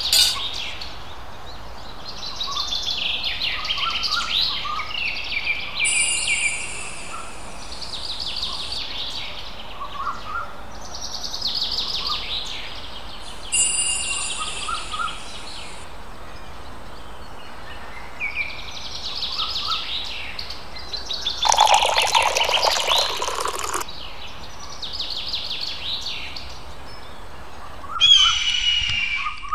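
Birds chirping and singing in short repeated phrases, with one louder burst of chatter about three quarters of the way through. A light clink of metal at the very start.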